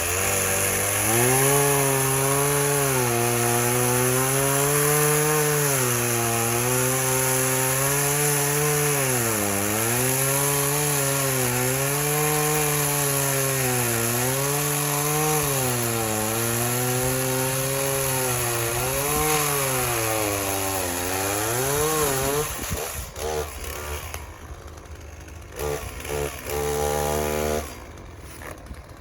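Two-stroke chainsaw at full throttle cutting into a tree trunk, its pitch sagging and recovering again and again as the chain loads up in the wood. About 22 seconds in it comes off the cut, is revved briefly a few times, then drops to a low idle near the end.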